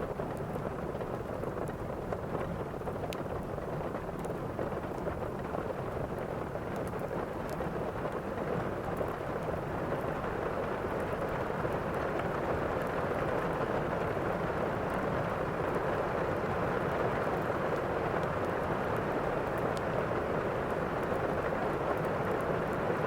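Steady heavy rain of a thunderstorm, with a low rumble of thunder underneath; it grows a little louder about halfway through.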